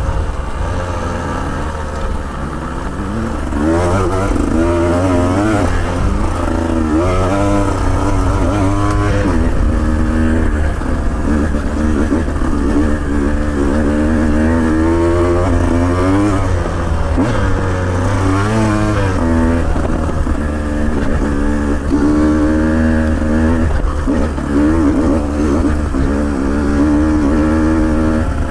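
Off-road motorcycle engine running under load on a loose dirt trail, revving up and falling back again and again as the throttle is worked, over a steady low rumble.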